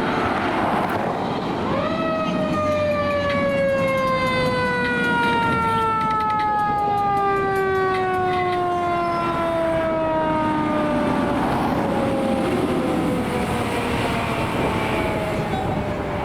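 Fire truck siren winding up sharply about two seconds in, then slowly falling in pitch as it winds down, over the truck's engine and road noise.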